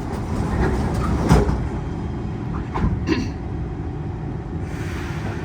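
Saloon doors of a Kawasaki C151 MRT train thudding shut after the closing chime, a sharp knock about a second in and smaller knocks near three seconds, over the steady rumble of the stationary train.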